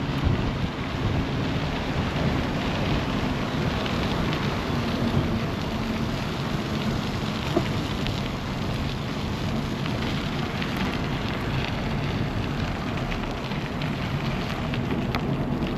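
Wind buffeting an action camera's microphone on a moving bicycle: a steady rushing noise with a low rumble.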